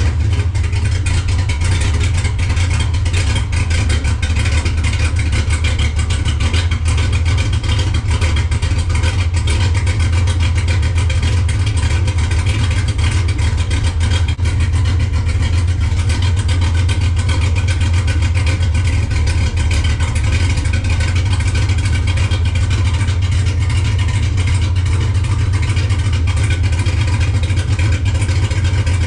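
LS-swapped V8 with an aftermarket cam idling steadily through a new 2.5-inch exhaust with an X pipe and Black Widow mufflers. The exhaust is only tack-welded, so it is expected to leak at the joints.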